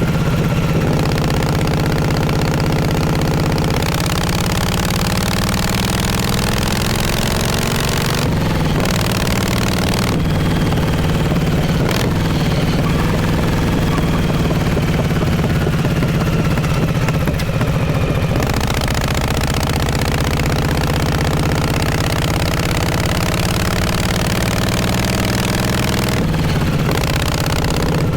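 1948 Harley-Davidson Panhead overhead-valve V-twin running through its exhaust on the move. The engine note holds steady for stretches, climbs slowly under acceleration, and falls back sharply a few times as the gears change.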